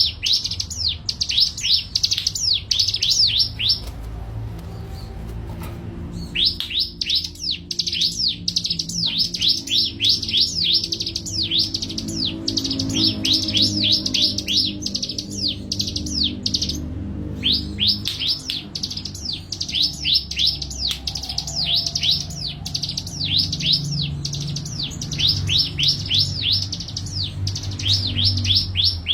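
A songbird calling in long runs of rapid, high chirps, each note sweeping downward, several notes a second. It breaks off briefly twice, early and about midway, over a faint low background hum.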